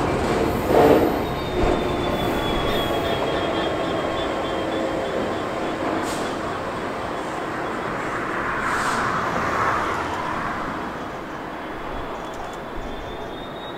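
Railhead treatment train of tank wagons and diesel locomotives running past and away: a continuous rumble of wagons on the rails, with a few knocks in the first couple of seconds and a faint high wheel squeal, fading gradually as it recedes.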